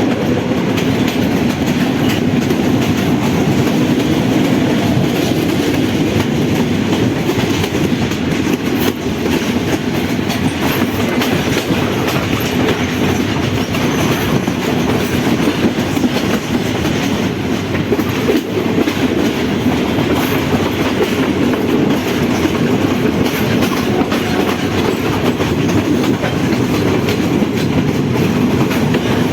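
Passenger train running steadily along the track: a continuous low rumble with frequent clicks of the wheels over the rails.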